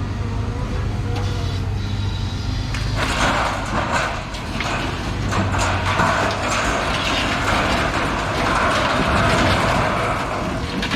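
A vehicle engine running steadily. About three seconds in, a louder steady mechanical clatter starts, with scattered clicks and knocks through it.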